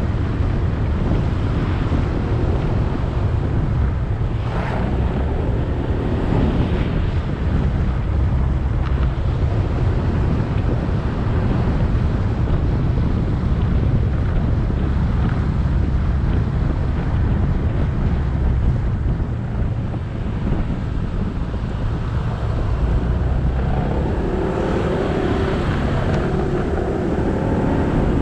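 Motorcycle engine running at riding speed, with wind buffeting the microphone and road noise.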